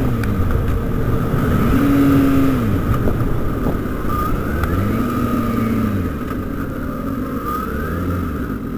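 Kawasaki ZX-6R inline-four engine running under a helmet camera, its note rising and falling about three times as the bike slows to pull over, with road and wind rush that eases off toward the end.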